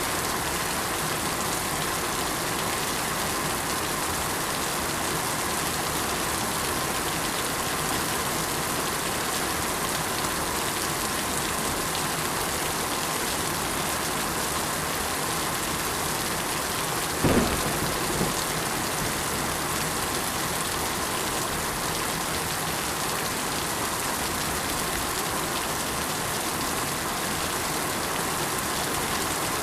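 Steady rain falling, an even hiss with no let-up. A little past halfway comes a brief low thump, with a fainter one about a second later.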